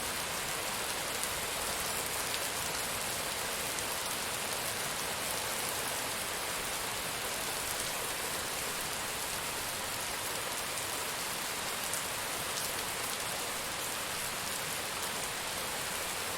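Rain falling steadily: an even hiss with a few faint drop ticks, no thunder.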